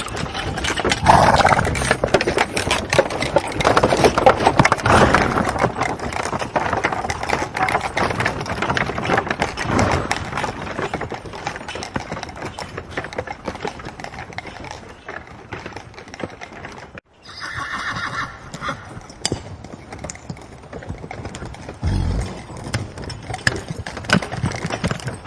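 Horses whinnying, with a steady clatter of hooves. A break about two-thirds of the way through, followed by another whinny.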